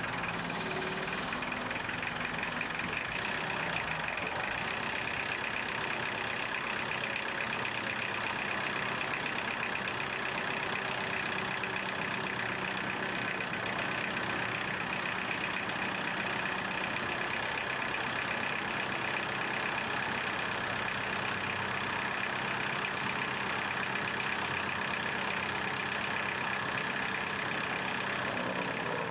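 An engine idling steadily, running without change.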